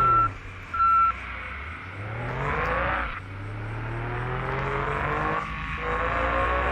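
A vehicle's engine accelerating through the gears: the revs climb, drop at a gear change about three seconds in, climb again and drop once more near the end. Two short electronic beeps in the first second.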